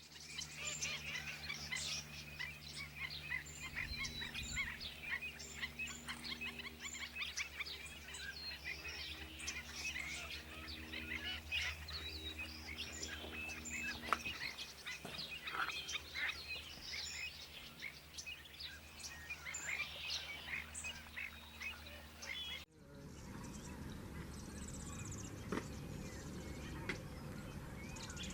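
Many small birds chirping and calling at once over a low steady hum. About 23 seconds in the sound cuts to a steadier outdoor background with fewer calls.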